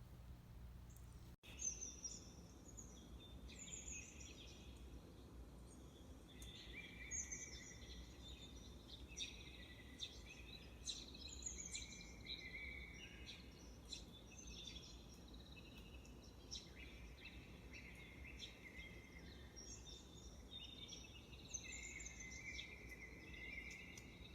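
Songbirds singing and chirping in short phrases one after another, faint, over a steady low background hum.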